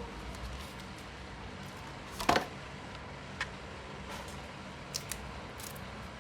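A few irregular small clicks and taps over a steady low hum, with one sharp, louder click about two seconds in.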